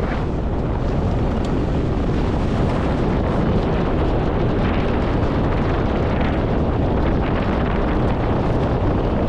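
Steady wind rumbling on the microphone, loud and unbroken.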